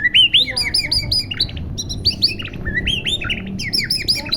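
White-rumped shama (murai batu) singing: a fast run of short, clear whistled notes, each sweeping up and down, with a brief lull midway.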